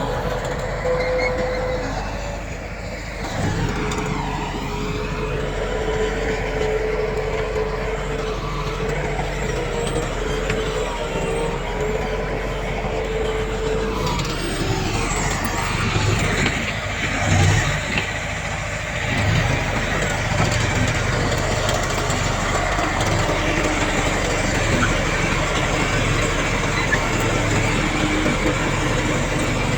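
Heavy earthmoving machinery with diesel engines running steadily, with a steady whine over the engine noise. The engine note rises and falls a couple of times as the machines work.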